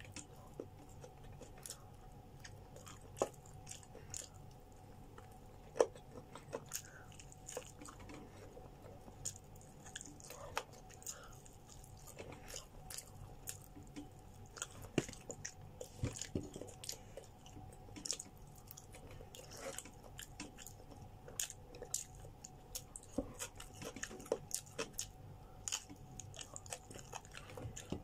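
Close-up chewing and biting of grilled chicken eaten by hand, with many irregular sharp clicks and mouth noises, busier in the second half.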